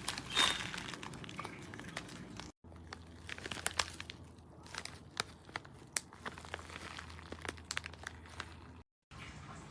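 Plastic packaging crinkling as it is handled, with scattered sharp clicks and crackles. The sound cuts out briefly twice, and a low hum comes in after the first break.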